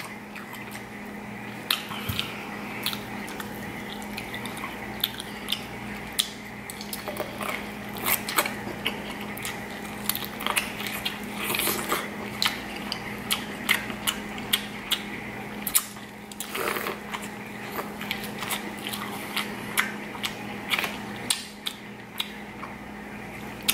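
Close-miked biting and chewing of corn on the cob: many short wet clicks, smacks and crunches one after another. A steady low hum runs underneath.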